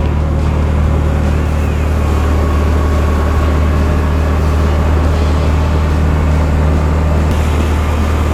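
CF Moto side-by-side running steadily under way, a constant low engine drone with a faint whine over it.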